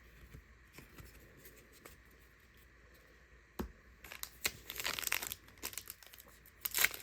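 Quiet card handling, then a sharp click, then from about four seconds in the foil wrapper of a trading-card pack crinkling and tearing open.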